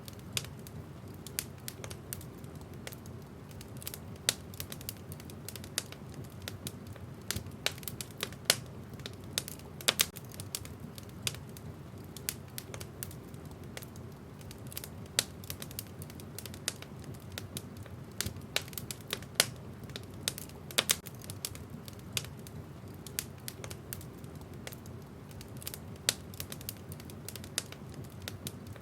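Wood fire crackling: irregular sharp snaps and pops, several a second, over a steady low rumble of burning logs.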